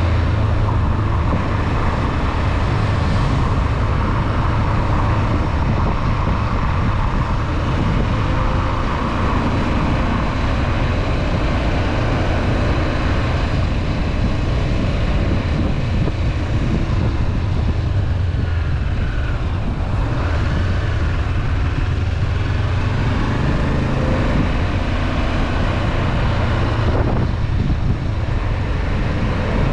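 Honda CB500F's 471 cc parallel-twin engine running at a steady cruise, a low drone under a constant rush of riding noise. About two-thirds through, the engine note briefly dips and rises again.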